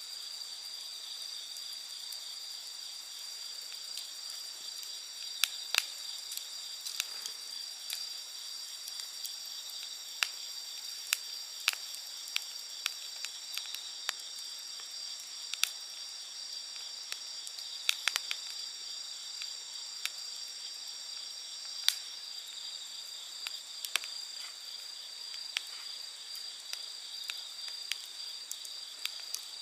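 Wood campfire crackling, with irregular sharp pops, over a steady high-pitched chorus of insects.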